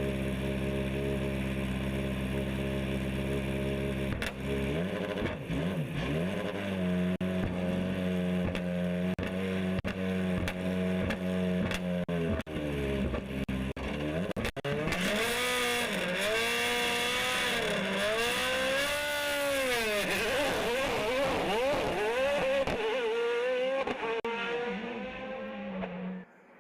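Hill-climb race car engine holding steady revs at first, then revving up and down again and again as it works through gear changes, with sharp crackles in the middle stretch. The sound cuts off suddenly just before the end.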